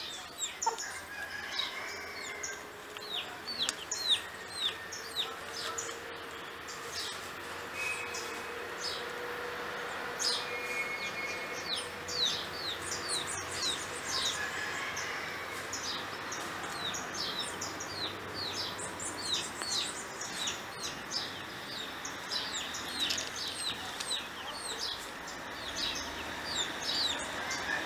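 Wild birds chirping: many short, high, downward-sliding chirps, often several a second and overlapping, over a steady background hiss.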